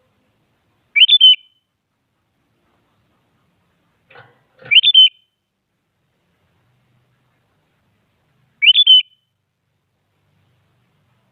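Sooty-headed bulbul (kutilang) giving three short bright calls a few seconds apart, each a quick run of whistled notes rising then dropping.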